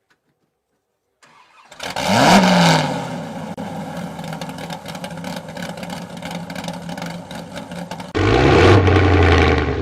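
After a second or so of silence, a car engine starts, flaring up in a quick rising rev as it catches, then settles into a steady idle. Near the end, a second, louder engine sound with a rising rev cuts in.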